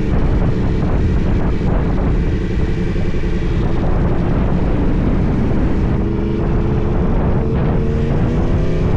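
Yamaha R1 sport bike engine running under a steady haze of wind and road noise, its pitch climbing over the last few seconds as it speeds up.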